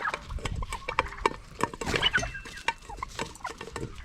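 Turkeys pecking at food in a bowl, a rapid irregular clicking of beaks, with a few short turkey calls about halfway through.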